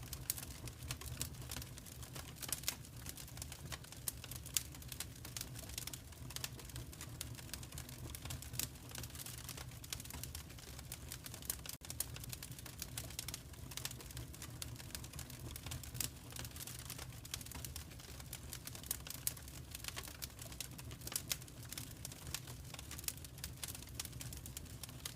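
Wood fire crackling in a fireplace: frequent small, sharp pops and snaps at an irregular pace over a steady low rumble of the burning.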